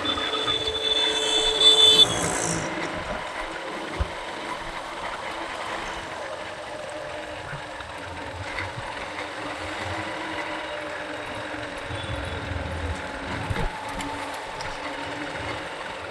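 City road traffic heard from a moving motorcycle: a vehicle horn sounds for about two seconds at the start, then steady engine and road noise.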